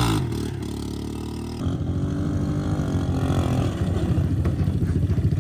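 Three-wheeler ATV engine running, dropping back at first and picking up louder again about a second and a half in.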